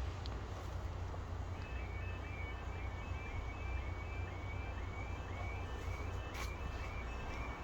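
Level crossing warning alarm starts sounding about a second and a half in, a rapid series of short rising electronic tones repeating two to three times a second, over a steady low rumble of wind on the microphone. A single sharp click comes near the end.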